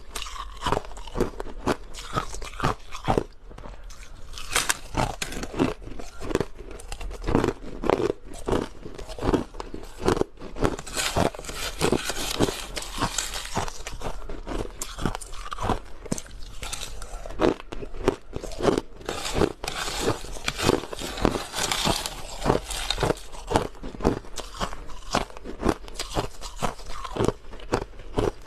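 Crushed ice being bitten and chewed, a rapid, irregular run of crunches and crackles.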